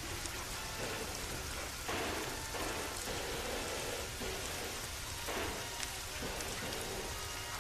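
Steady rain falling, a continuous hiss with scattered drop ticks. It swells heavier a few times, about a second in, around two to three seconds in, and again near six seconds.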